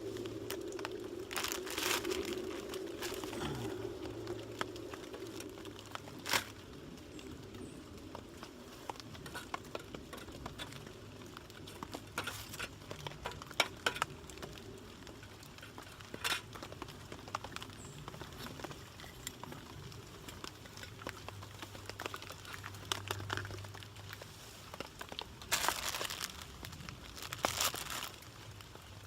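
Plastic ramen noodle packet crinkling as it is handled, with scattered sharp clicks and knocks, and a longer rustle near the end.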